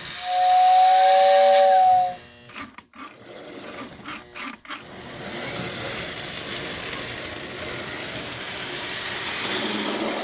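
Lionel O gauge toy train's whistle sounding a steady two-note chord for about two seconds, followed by the train running along the track.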